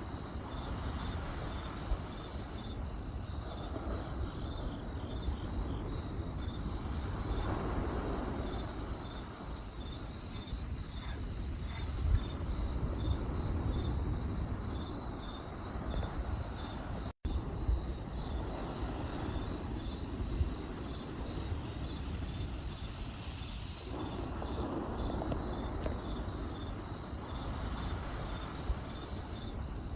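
Crickets chirping in a steady, fast-pulsing trill over the low rumble of a campfire, with an occasional sharp crackle or pop. The sound cuts out for an instant a little past halfway.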